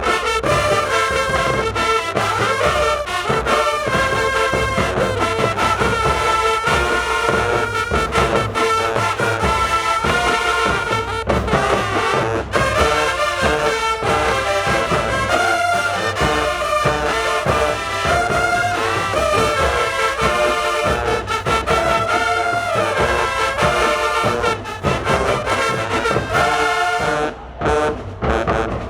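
High school marching band playing loudly, a brass section of trombones and trumpets holding chords over driving drum hits; the playing breaks off for a moment near the end.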